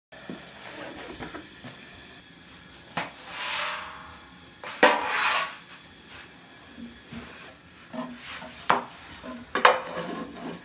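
Kitchen handling sounds: dishes and utensils knocking, clinking and scraping, with two longer, louder scrapes about three and five seconds in and scattered knocks near the end.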